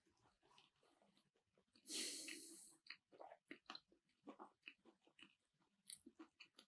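Close-miked chewing of keto sushi made with cauliflower-and-cheese rice: a run of small, wet mouth clicks and soft crunches. About two seconds in there is one short, loud hiss of breath.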